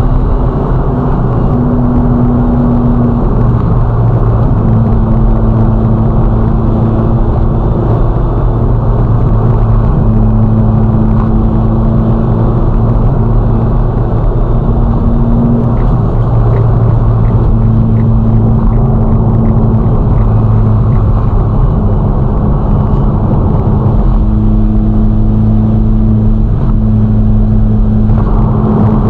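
Ferrari Roma's twin-turbo V8 running at a steady cruise, a loud, even drone under road noise, its pitch easing up or down slightly a few times as the revs change.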